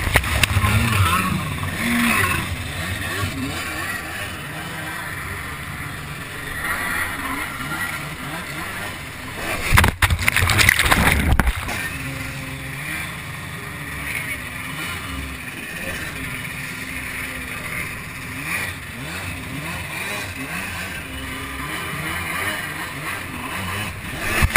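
Jet ski engine running and revving up and down, with rushing water and wind noise; a loud rush of spray or wind about ten seconds in.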